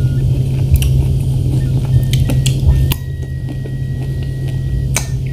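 Close-up mouth sounds of eating fresh strawberries: wet chewing with scattered clicks and smacks, over a steady low hum.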